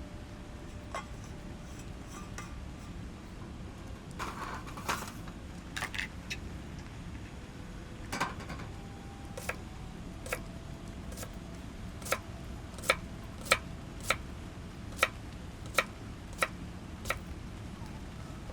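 Light clinks of metal cookware and utensils, scattered at first, then a regular run of sharp clinks about every 0.6 s in the second half. Underneath is a steady low rush of wind and rain.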